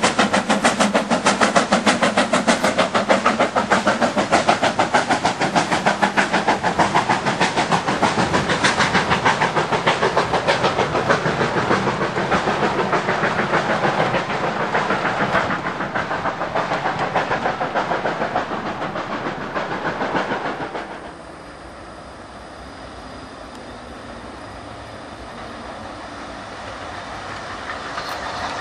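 Steam-hauled train running past with rapid, even beats, loud for about twenty seconds. Then the sound drops suddenly to a quieter, steadier train noise that slowly swells again.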